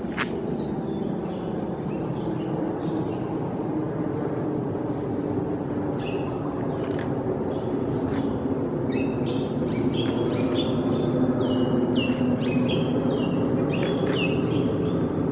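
Steady low rumble of outdoor engine noise, slowly growing louder. Over it a small bird chirps in a run of short, repeated, slightly falling notes through the second half.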